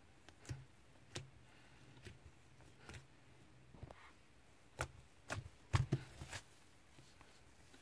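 Slime being handled by hand, giving irregular small clicks and pops, with a quick cluster of louder ones about five to six seconds in.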